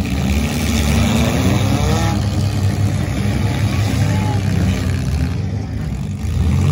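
Engines of several small demolition derby cars running and revving, one rising in pitch from about half a second to two seconds in.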